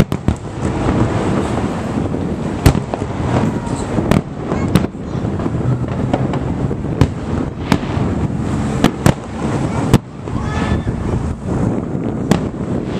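Aerial fireworks shells bursting: about a dozen sharp bangs at irregular intervals over a steady background rumble.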